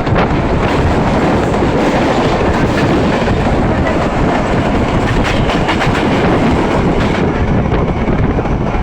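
A moving train's wheels running on the rails, with a steady rumble and scattered clacks as the wheels cross rail joints.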